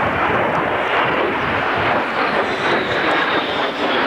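A-10 Thunderbolt II's twin General Electric TF34 turbofans in a low pass: a loud, steady jet rush with a thin high whine above it.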